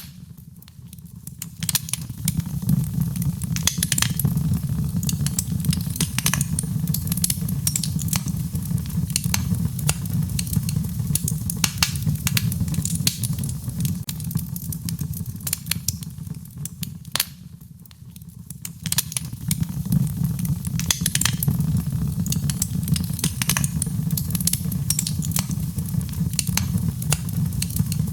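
Wood fire crackling with irregular sharp pops over a steady low rumble, mixed with the patter of rain. The whole bed fades down briefly just after the start and again about two-thirds of the way through, then swells back.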